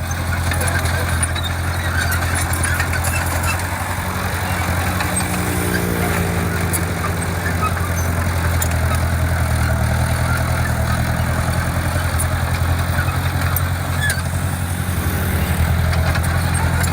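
Diesel engine of a bulldozer or dump truck running steadily, a low continuous hum with small shifts in engine speed.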